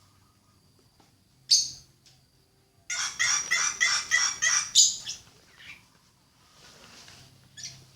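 A bird calling: one harsh call about a second and a half in, then a fast run of about ten harsh notes, roughly five a second, lasting about two seconds, and a fainter call near the end.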